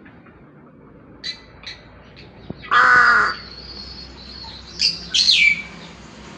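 A caged pet bird gives a loud, harsh caw lasting about half a second, with a few faint short calls before it. Two shorter calls follow, the second sliding down in pitch.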